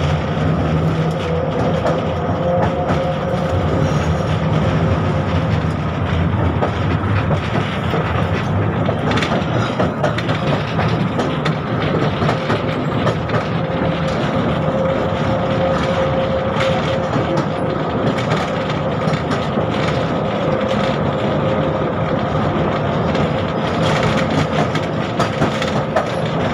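71-605 (KTM-5M3) tram running along the line, heard from on board: a steady whine over continuous rolling noise, with frequent rattles and knocks.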